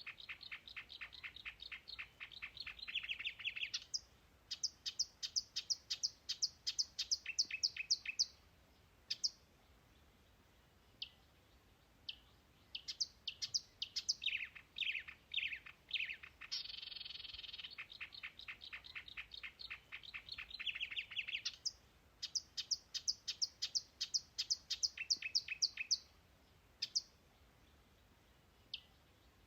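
A songbird singing long phrases made of a fast rattling trill and runs of high, evenly spaced notes, about five a second, with pauses of a few seconds between phrases.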